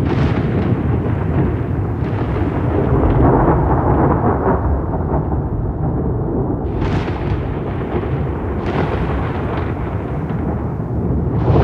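Rolling thunder: a continuous heavy rumble, with sharper crackling peals breaking through at the start and again about 7 and 9 seconds in.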